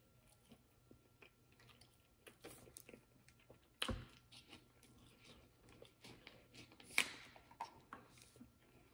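Close-miked chewing of a mouthful of baked chicken: quiet, wet mouth clicks and smacks, with two sharper clicks about four and seven seconds in.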